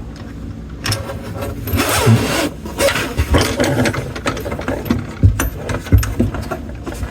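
Faucet fittings being handled and tightened by hand: irregular knocks, clicks and rubbing of metal and plastic parts.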